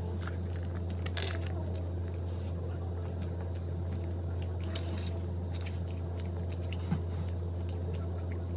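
A person chewing and biting food close up, with scattered short wet mouth clicks, over a steady low hum.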